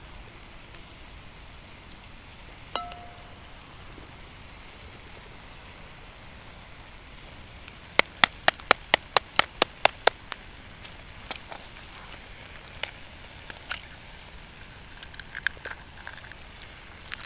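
Bacon and hash browns sizzling in a cast-iron skillet, a steady hiss. About halfway through there is a quick run of about ten sharp clicks, about five a second, followed by a few scattered lighter clicks.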